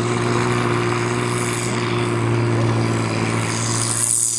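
Mega mud truck's Cummins diesel engine running at steady high revs as the truck struggles through deep mud, with a rising hiss near the end.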